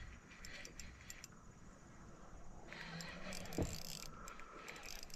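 Faint scattered clicks and small rattles, with one short thump a little past the middle.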